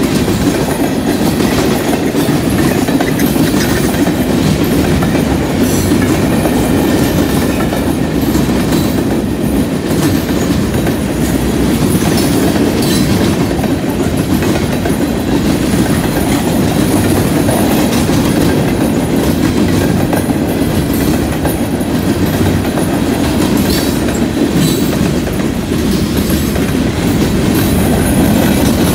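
Freight cars (tank cars and covered hoppers) rolling past at close range: a steady, loud rumble of steel wheels on the rails.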